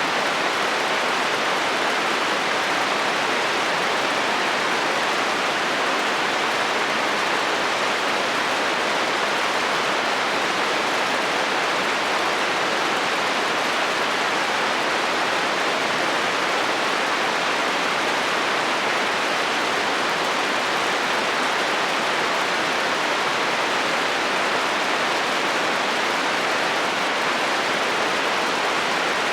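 Heavy rain falling on a metal roof: a steady, even hiss with no pauses or single drops standing out.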